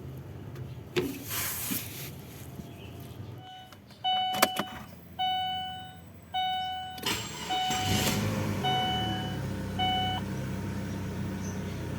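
A car's dashboard warning chime sounds about six times, a little over a second apart. Around the middle, the Chevrolet Optra's 1.6-litre F16D3 four-cylinder engine cranks, catches and settles into a steady idle.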